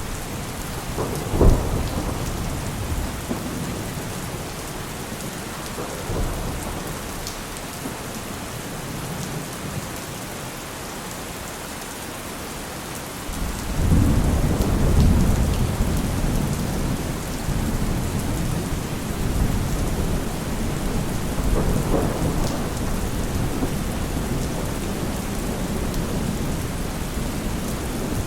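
Heavy rain falling steadily during a thunderstorm. A sharp crack of thunder comes about a second and a half in, and about halfway through a long, low thunder rumble swells up and rolls on, with a smaller roll later.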